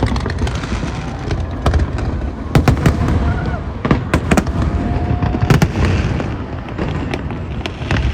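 Aerial fireworks display bursting: a string of sharp bangs at irregular intervals, several close together around the middle, over a continuous low rumble.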